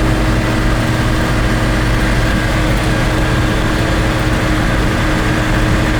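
Deuce-and-a-half military truck's engine running steadily at cruising speed with road noise, heard from inside the cab, with a constant low hum and a steady tone.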